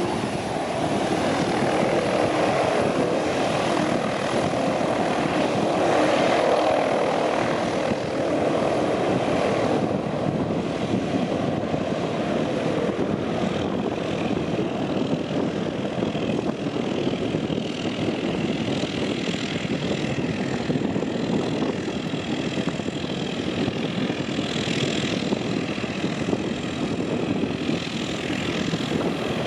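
Twin Rolls-Royce Dart turboprop engines of a YS-11EB aircraft, running loud and steady with a propeller drone.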